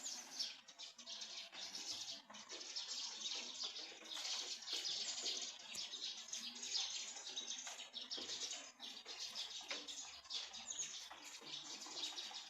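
Light spring rain falling and tapping steadily, with birds chirping through it.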